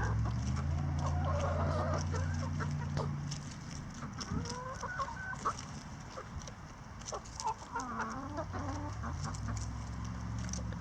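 A flock of laying hens clucking softly while they feed, with many small clicks throughout. A low steady hum sits underneath for the first few seconds and comes back near the end.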